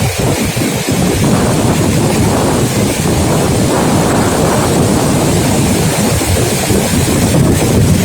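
Steady loud roar of a large waterfall's rushing water, with wind buffeting the microphone.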